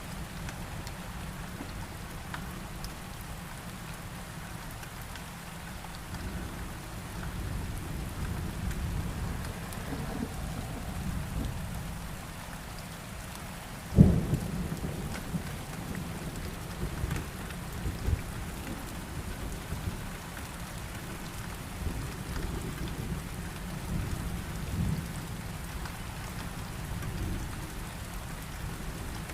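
Steady heavy rain with thunder. Low rumbles swell from time to time, and a sharp, loud thunderclap comes about halfway through, followed by rolling rumble.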